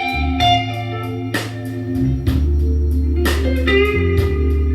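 Slow blues band playing an instrumental fill between sung lines: a lead guitar holds and bends sustained notes over bass and a steady drum beat.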